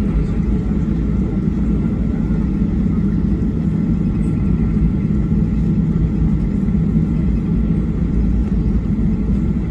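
Steady low cabin rumble inside a Boeing 737-800 on the ground after landing, with a faint steady whine on top.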